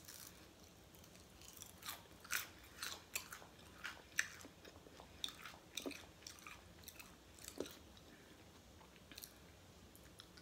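Close-up chewing and biting into a crispy oven-baked chicken wing: a run of faint, sharp crackly crunches that thin out after about eight seconds.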